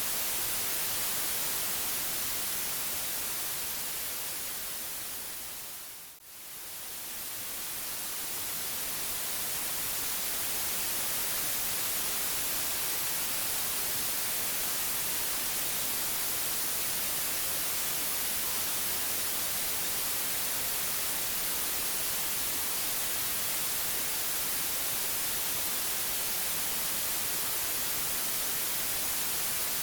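Steady white-noise hiss, strongest in the high end. It fades down to a brief dip about six seconds in, then swells back up over the next few seconds.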